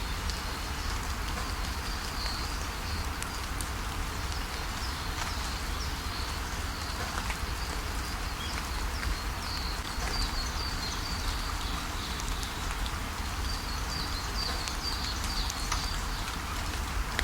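Steady rainfall pattering, with birds giving short high chirps on and off throughout.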